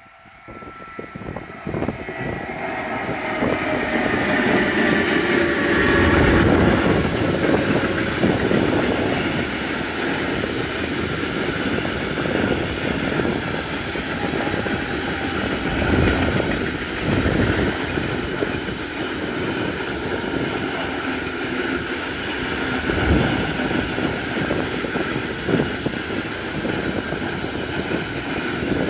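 Electric-hauled freight train approaching and passing close by: the locomotive's whine falls in pitch as it goes by. Then a long rake of DB Cargo hopper wagons rolls past with a steady rumble and clatter of steel wheels on the rails, and a few sharp clunks.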